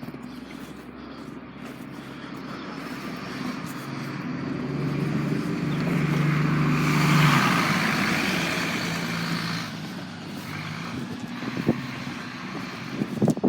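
A motor vehicle driving past: its engine and road noise build to a peak about seven seconds in and then fade away. A couple of sharp knocks come near the end.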